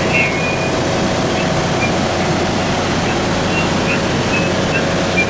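Steady running noise of a passenger train car in motion, heard from inside the car.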